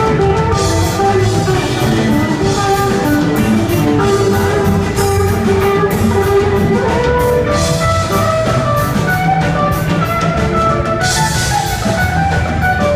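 Live rock band playing an instrumental passage with electric guitars, bass, keyboards and a drum kit, with cymbal crashes about a second in and again near the end.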